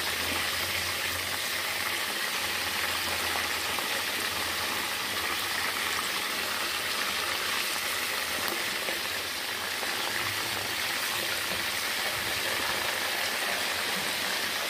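Duck pieces deep-frying in hot oil in a wok: a steady sizzle.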